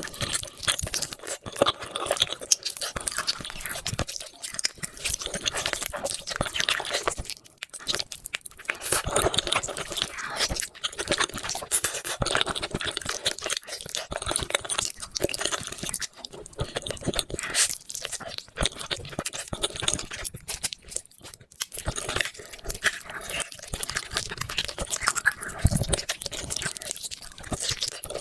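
Close-miked eating of beef feet: steady chewing and crunching, with dense, irregular crackles and smacks.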